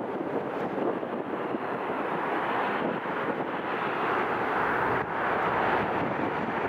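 Aircraft engines heard outdoors as a steady rushing noise, growing a little stronger near the end, with wind on the microphone.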